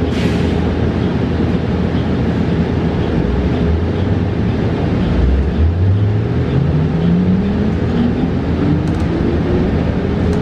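Cabin noise inside a 2022 New Flyer XE40 battery-electric bus under way, with a steady hum and a short hiss at the very start. From about halfway through, the electric drive motor's whine rises smoothly in pitch as the bus accelerates.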